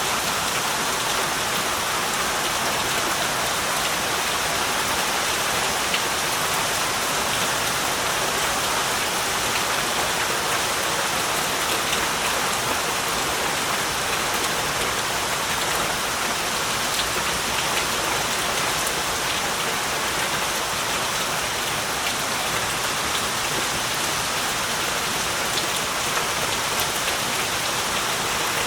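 Heavy rain falling steadily, an even hiss of rain on surfaces with scattered drop ticks.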